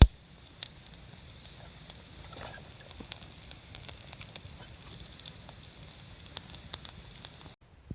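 Wood campfire crackling with scattered sharp pops, over a steady high-pitched drone of summer insects. The sound cuts off abruptly near the end.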